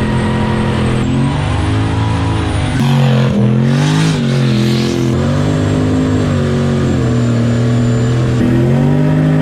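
Vehicle engine revving up and dropping back again and again, in several short clips cut together. In the middle comes a broad hiss, as from tyres spinning in a burnout.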